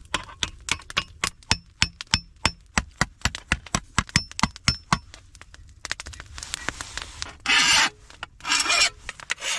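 Hammer striking thin 22-gauge steel sheet on a stump anvil, rapid blows about five a second, some with a short high metallic ring, as a lip is knocked into the edge. Near the end come two loud rasping scrapes on the metal.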